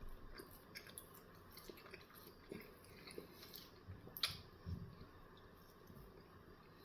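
Faint chewing and wet mouth clicks of a person eating a breakfast bagel sandwich, with one sharper click about four seconds in.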